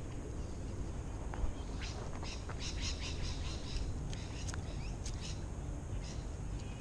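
Birds chirping, in short repeated calls that are busiest in the middle of the stretch, over a steady low rumble.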